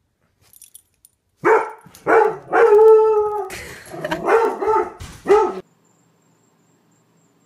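A dog giving a run of loud, pitched barks and yowls, one drawn out for about a second in the middle, starting about a second and a half in and cutting off suddenly a little before the end.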